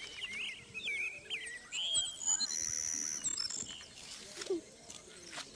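Birds chirping and calling: a run of short wavering calls, then higher, thinner whistled notes about two to three seconds in, fading to faint outdoor background near the end.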